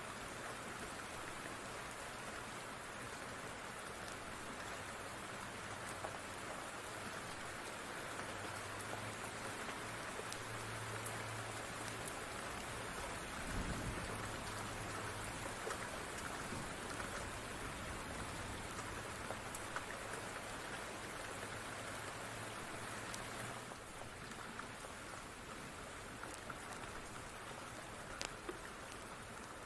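Steady rain with a dense, even patter, sprinkled with small sharp crackles from a wood fire. A brief low rumble comes about halfway through, and a low hum underneath stops about three-quarters of the way in.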